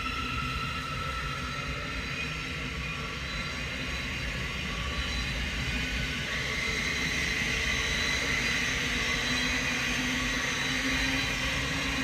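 Train running past on the line: a steady rumble of wheels on rail with a high whine over it, growing a little louder in the second half.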